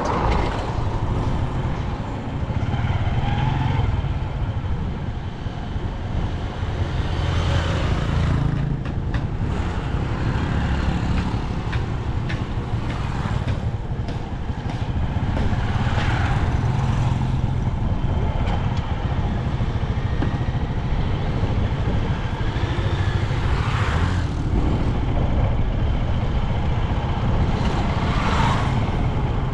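Motor vehicle running on a road, heard from on board: a steady low engine and road rumble with wind noise, and a few brief swells.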